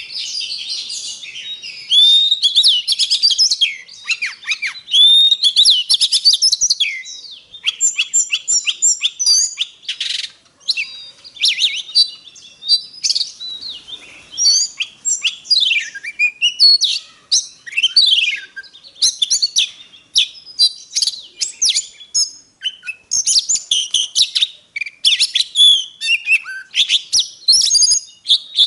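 Oriental magpie-robin singing a long, varied song: sweeping whistled notes that rise and fall, broken up after the first few seconds by quick runs of short, clicky chattering notes.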